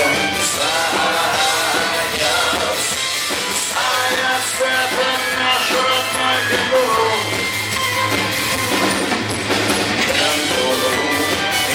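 Live rock band playing a song, loud and steady, with a drum kit in the mix.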